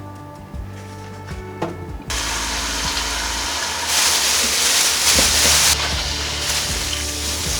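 Food sizzling in a hot frying pan. The hiss starts suddenly about two seconds in and is louder for a second or two in the middle, with background music under it.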